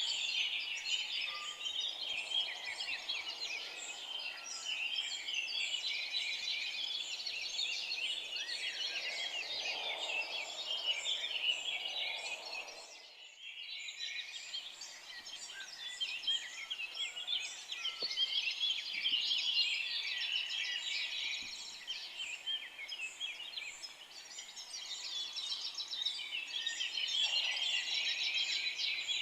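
A dense chorus of many forest songbirds chirping and trilling over one another. The chorus briefly drops away about halfway through.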